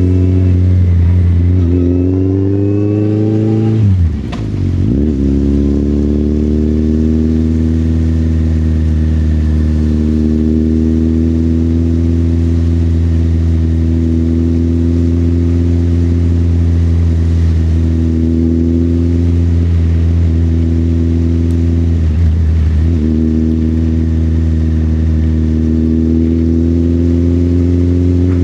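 Motorcycle engine pulling with its note rising, a brief dip in the note about four seconds in as it shifts gear, then running at a steady pitch while cruising, with one more short dip later on.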